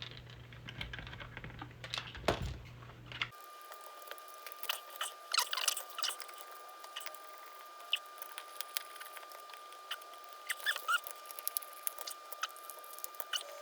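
Light clicks, scrapes and scratches of hands working the plastic housing and wiring of a toy PKE meter prop while taking it apart to reach its speaker.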